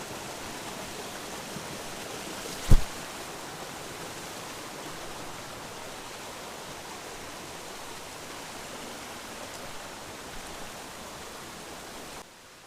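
Steady rush of a flowing upland stream. One sharp knock about three seconds in, and the rushing drops away suddenly near the end.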